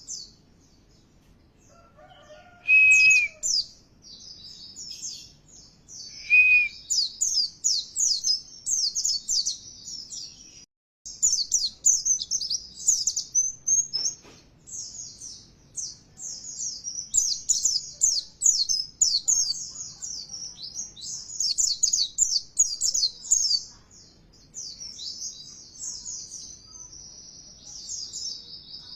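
White-eye (pleci) song: a dense, fast, high twittering of rapid short notes that runs almost without pause, broken once briefly about a third of the way in. Two louder clear whistled notes sound near the start, a few seconds apart.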